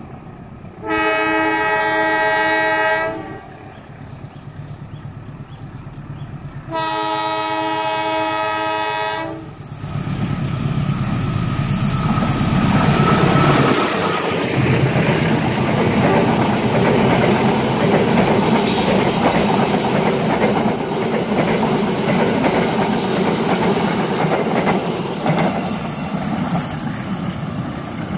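A KAI CC206 diesel-electric locomotive sounds its multi-tone horn in two long blasts of about two seconds each. About ten seconds in, the train runs past close by: diesel rumble and wheels clattering over the rail joints, which stays loud and steady to the end.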